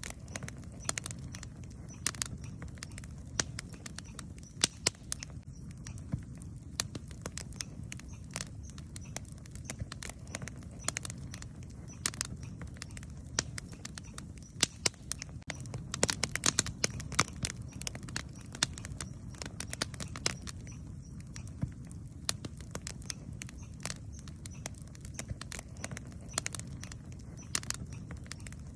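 Campfire crackling: irregular sharp pops and snaps of burning wood over a low, steady rumble, with a denser flurry of crackles about halfway through.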